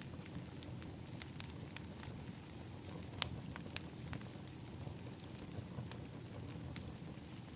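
Outdoor wood fire pit crackling: sharp pops and snaps scattered over a steady low rumble, with the loudest pop about three seconds in.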